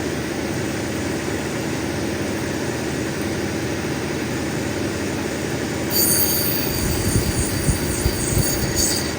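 Cabbing machine's grinding wheel running while a black opal is ground against it. About six seconds in, a higher, scratchy grinding sound comes in and the level rises in uneven surges as the stone is pressed to the wheel.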